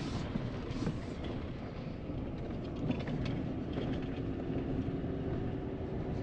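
A vehicle driving: a steady low engine and road rumble with a few light rattles, and a faint steady hum joining about four seconds in.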